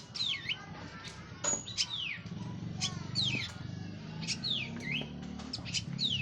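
Orange-headed thrush (anis merah) singing: quick whistles that slide downward in pitch, repeated every second or so and mixed with sharp clicking notes, over a faint low hum.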